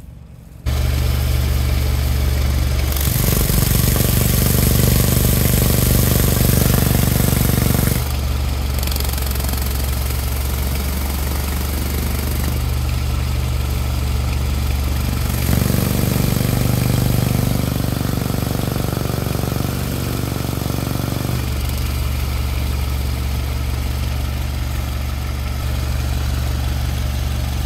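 Toyota VVT-i car engine idling steadily with its oil filler cap removed. Twice it is joined by several seconds of louder hiss.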